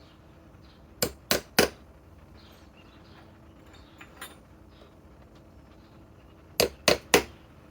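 Sharp knocks of hard objects: three in quick succession about a second in and three more near the end, as tools and fasteners are handled.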